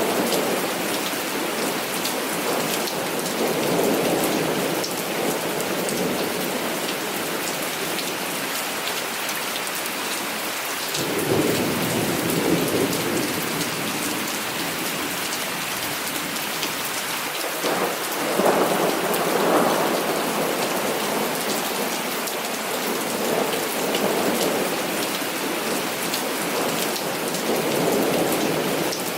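Heavy rain falling steadily, with several long rolls of thunder swelling and fading over it, the loudest rumble about two-thirds of the way through.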